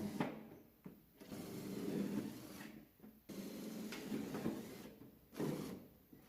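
Electric drill-driver whirring in four short runs as it drives screws into thin tin-can sheet metal.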